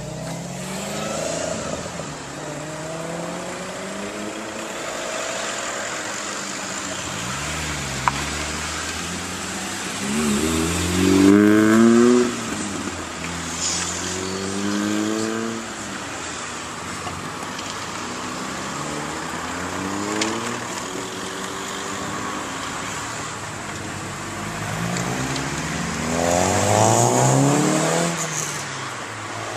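A stream of modified VW, Audi and Skoda cars driving past one after another, their engines rising in pitch as they accelerate away. The loudest pass-bys come about eleven and twenty-seven seconds in.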